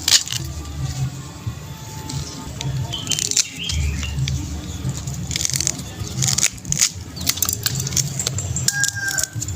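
Banana leaf stalk toy gun clattering: several bursts of rapid snapping clicks as its cut tabs are flipped along the stalk.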